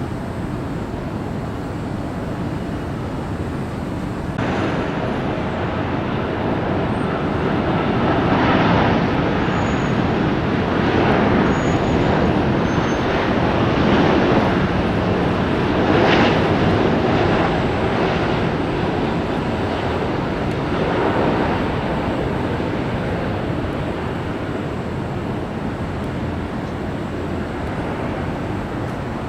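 Jet airliner passing, its engine noise growing about four seconds in, loudest through the middle with uneven swells, then easing off.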